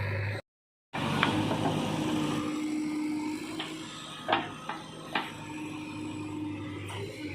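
JCB 3DX Xtra backhoe loader's diesel engine running steadily, with a few sharp knocks and clanks of the working machine. The sound cuts out completely for half a second near the start.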